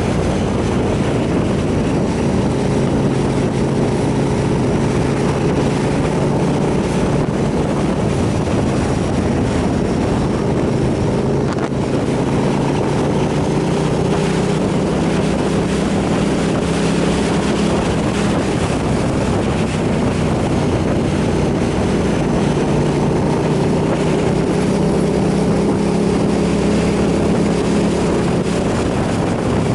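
Motorcycle engine running steadily at road speed, its pitch shifting slightly a couple of times, with wind rushing over the microphone.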